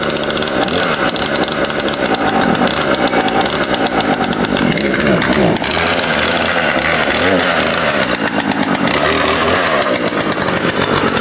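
Gasoline chainsaw running loud, its engine pitch sweeping up and down a few times around the middle as it is revved.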